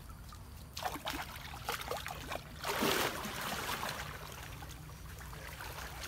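Water splashing and sloshing in irregular bursts, loudest about three seconds in, over a low steady rumble.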